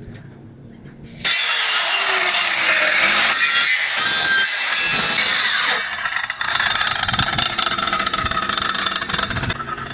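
A power saw cutting through a guadua bamboo pole. It starts abruptly about a second in and runs loudest for a few seconds, then carries on more quietly as the cut goes through.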